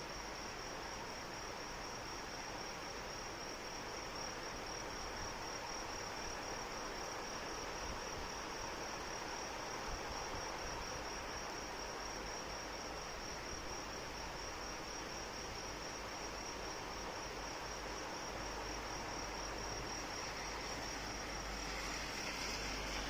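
Crickets chirping in a steady, fast-pulsing high trill over the even hiss of rain.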